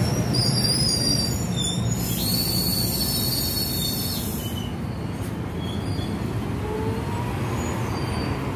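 NJ Transit bilevel commuter coaches rolling past on the rails, a steady rumble of wheels on track. A high-pitched wheel squeal rings over it through the first half, then stops.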